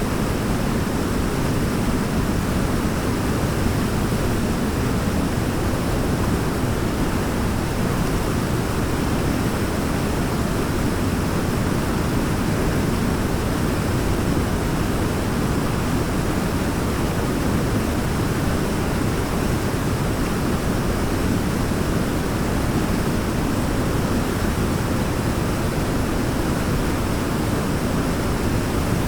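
Waterfall: falling water making a steady, even rush, deepest in the low end, with no changes or separate splashes.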